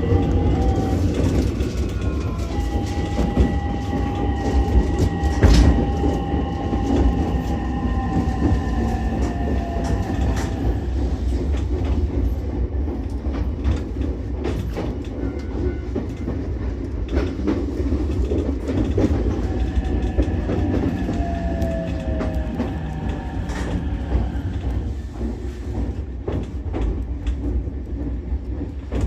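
Ichibata Electric Railway 7000-series electric railcar running along the line, a steady rumble of wheels on rail with clicks over rail joints. A whine of several tones comes in about two seconds in and fades after about ten seconds, then returns briefly a little past the middle, falling in pitch as it fades.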